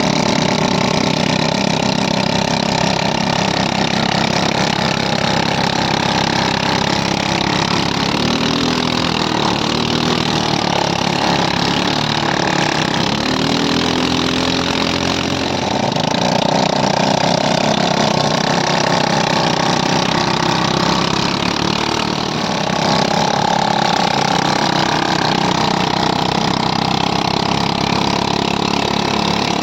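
ATV engine running under way. Its pitch rises and falls with the throttle near the middle, then settles back to a steady run.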